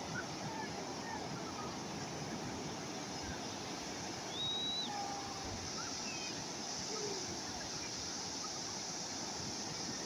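Calm sea waves washing on the shore, a steady wash of surf with a few faint short chirps here and there.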